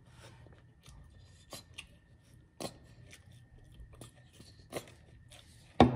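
Close-miked chewing and biting of crunchy Popeyes fried chicken: scattered crisp crunches and mouth clicks, the loudest crunch near the end.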